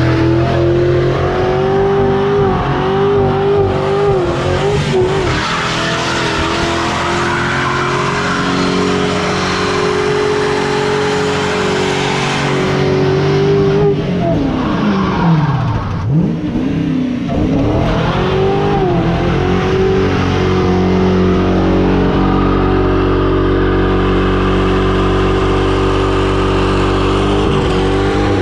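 A vehicle engine held at high revs while its tire spins and squeals in a burnout. About halfway through, the revs drop briefly and climb back, then hold steady.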